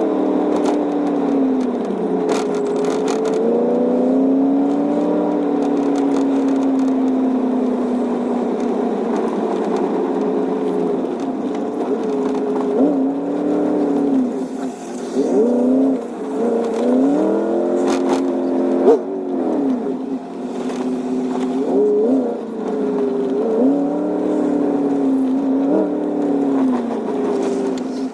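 Straight-piped 5.3 L V8 of a 1999 Chevy Silverado running loud through its open exhaust. Engine speed falls and rises slowly at first, then climbs and drops in quicker revs and shifts through the second half, and the sound drops off sharply near the end.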